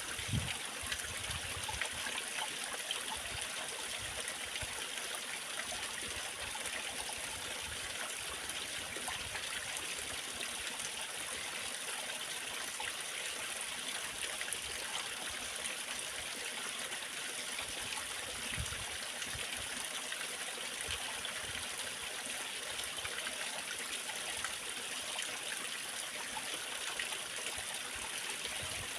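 Waterfall: a steady, continuous rush of falling and flowing water.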